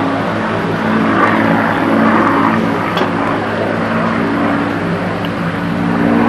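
Twin piston engines of a Shrike Commander propeller plane droning steadily in flight, the engine note wavering slightly in pitch.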